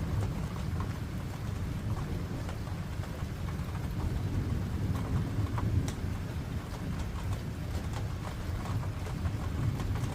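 Rain falling, with scattered drop clicks, over a steady low rumble of distant thunder.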